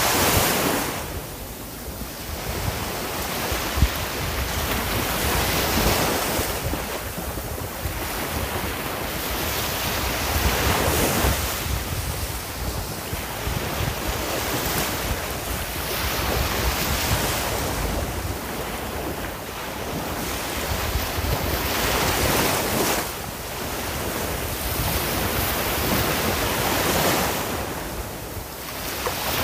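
Sea waves breaking and washing on the shore, the surf swelling and ebbing every few seconds, with wind noise on the microphone.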